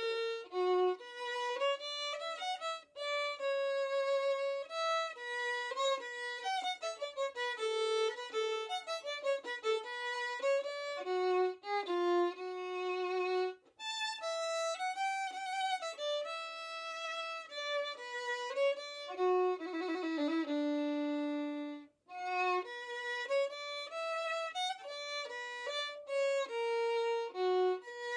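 Background music: a solo violin playing a flowing melody, one note at a time, with brief pauses about halfway through and again about two-thirds of the way through.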